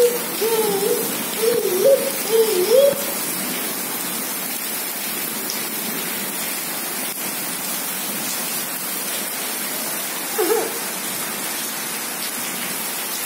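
Heavy rain pouring onto a paved courtyard: a steady, loud hiss. Short wavering voice-like sounds come over it in the first three seconds and again briefly about ten seconds in.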